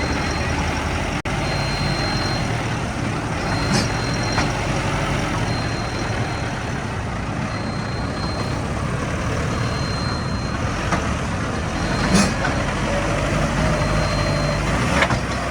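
Tractor diesel engine running steadily under load, with a thin, high beep switching on and off about once a second and a few brief knocks.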